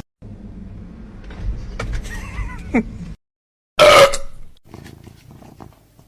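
Animal sounds in two short clips: a low rumble with a few brief gliding calls, then, after a cut, one loud short animal cry about four seconds in, followed by faint clicks.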